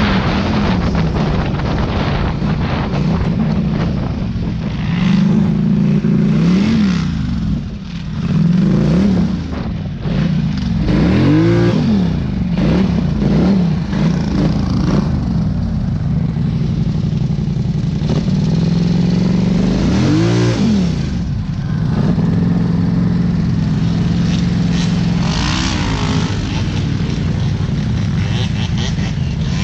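Off-road vehicle engine running steadily while riding, revving up and back down several times, most clearly near the middle and about two-thirds of the way through.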